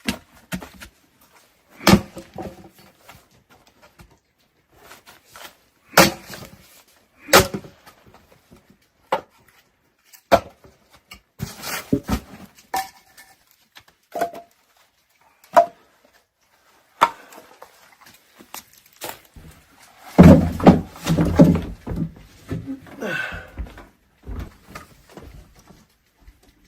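Irregular knocks and thumps, a dozen or so spread out, then a louder, busier bout of clattering and knocking about twenty seconds in.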